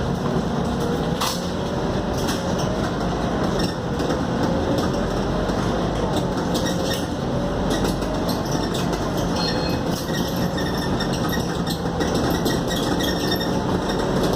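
Scania K280UD double-decker bus heard from inside the cabin while under way: steady engine and road rumble, with a whine that slowly rises and falls in pitch and light rattling and clinking from the body and fittings.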